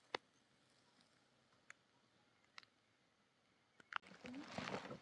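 A few sharp, isolated clicks in near quiet, the loudest right at the start. Near the end this gives way suddenly to a steady run of rustling and knocking.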